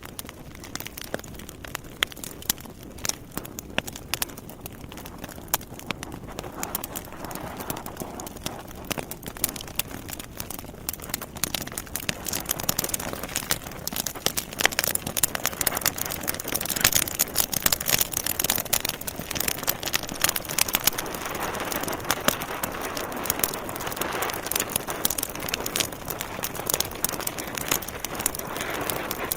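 Logs burning in a fireplace, crackling with a dense run of sharp snaps and pops over a steady hiss of flame. The crackling grows busier and louder about halfway through.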